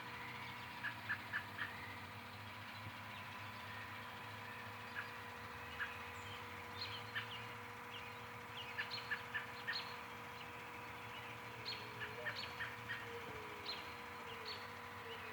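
Evening bird chorus: many short, high chirps and calls scattered throughout. From about two-thirds of the way in, a low, soft cooing repeats several times, which the listener takes for a dove.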